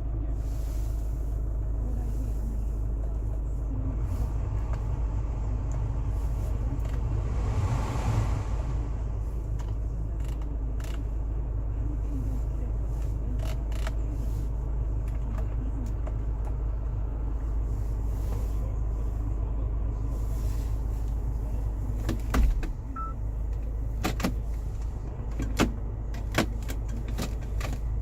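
SsangYong Korando turbo-diesel engine idling with a steady low rumble, with a few sharp clicks and knocks in the second half, the loudest about two-thirds of the way in.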